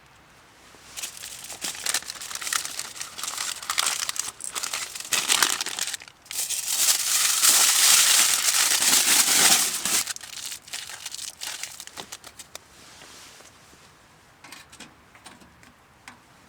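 Crinkly material being handled and crumpled: bursts of crinkling start about a second in, grow loudest in the middle, then die away to a few scattered crackles after about twelve seconds.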